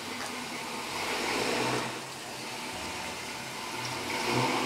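Vintage Buick convertible's engine running at idle, swelling about a second in and getting louder near the end.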